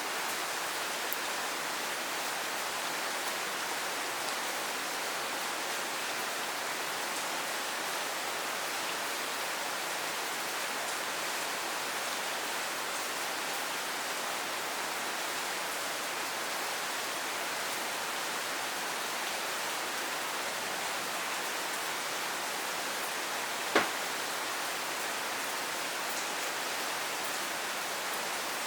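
Steady rain falling, an even hiss of many drops with faint scattered ticks. Late on, a single sharp knock stands out above the rain.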